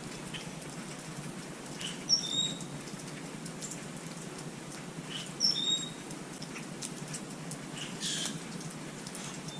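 Small birds at a feeder giving short high chirps in two brief bursts, about two seconds and five and a half seconds in, over scattered faint ticking and patter.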